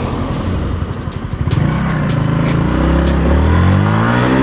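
Motorcycle engine, Yamaha MT-15 single-cylinder, heard from the rider's seat: it runs at low revs for about a second and a half, then pulls harder, the revs climbing, dipping at a gear change and climbing again.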